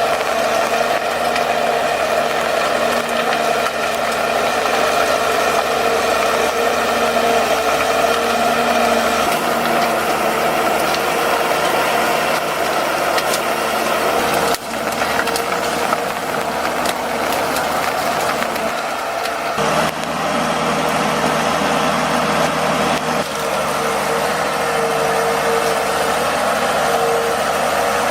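Heavy machine's engine running steadily with a steady whine over it. The sound breaks off and changes abruptly about halfway through and again a few seconds later.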